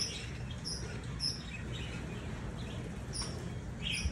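Small birds chirping: short, high chirps repeating every second or so, over a steady low background rumble.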